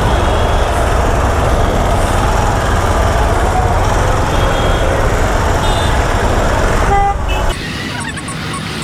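Road traffic heard from a moving motorcycle, with heavy wind rumble on the microphone and vehicle horns tooting several times, one longer honk about seven seconds in. The wind rumble drops away suddenly about seven and a half seconds in, leaving lighter traffic noise.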